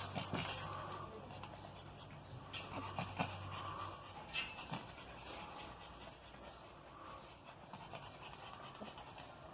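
A dog panting faintly, with scattered light clicks and rustles. A low steady hum underneath stops about four seconds in.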